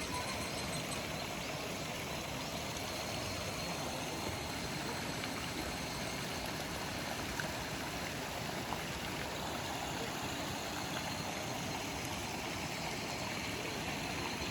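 Mountain stream water rushing steadily, an even wash of noise.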